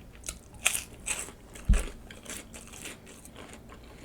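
Close-up crunching and chewing of nacho chips: a run of crisp crunches, with one low thump a little under two seconds in.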